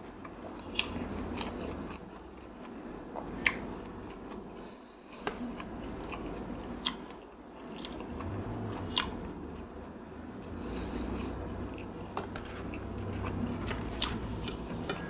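Close-miked eating sounds: a person chewing a mouthful of rice and fermented meat, with wet mouth smacks and clicks every second or so.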